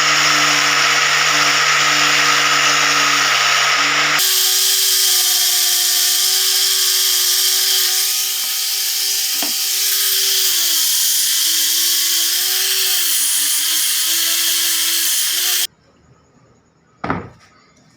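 Electric power tool running on wood, loud and steady. About four seconds in the sound changes abruptly to a higher, slightly wavering pitch that dips a little now and then under load. It cuts off suddenly near the end, followed by a single light knock.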